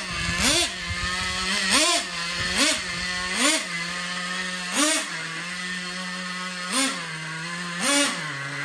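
Traxxas Revo 3.3 RC truck's small two-stroke nitro engine idling, revved in about seven short throttle blips, each a quick rise and fall in pitch.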